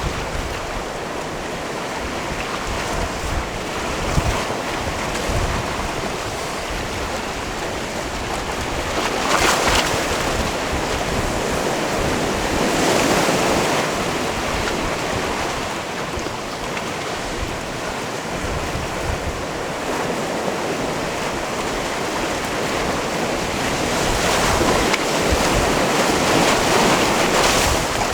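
Sea waves washing against a rocky shore: a continuous rush of surf that swells and ebbs, with louder surges about nine and thirteen seconds in and again near the end.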